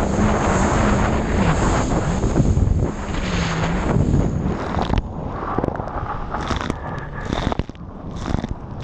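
Jet ski engine running under heavy wind buffeting on the microphone and water noise, its pitch rising and falling with the throttle. About five seconds in the engine note drops away and the wind and spray come in gusts.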